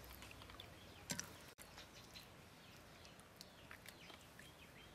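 Faint birds chirping, many short calls scattered throughout. A single short knock about a second in.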